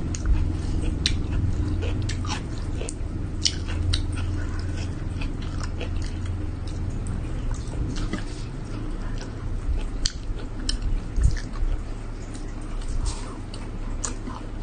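Close-up chewing and wet mouth clicks of a person eating rice by hand: many short, sharp clicks scattered throughout, over a low steady hum.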